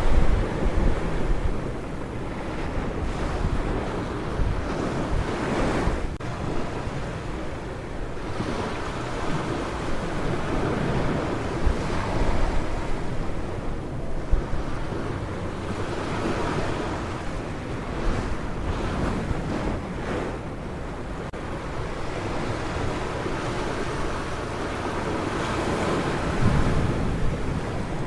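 Ocean surf breaking on a beach, a steady wash that swells and eases as each wave comes in, with wind rumbling on the microphone.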